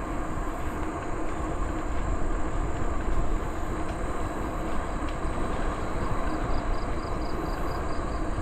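Steady wind rush over the microphone and tyre rumble of a bicycle riding at about 12 miles an hour, with a quick run of faint high ticks near the end.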